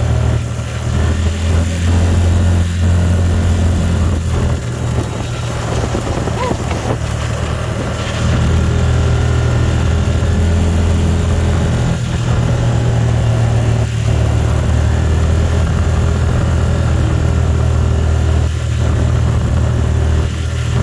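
Car driving, heard from inside the cabin: a steady low engine and road hum that gets a little louder about eight seconds in.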